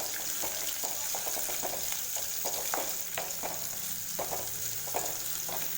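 Sliced onion and crushed garlic frying in hot oil in a kadai, with a steady sizzle. A spatula stirs and scrapes the pan in short, irregular strokes as the onion is sautéed.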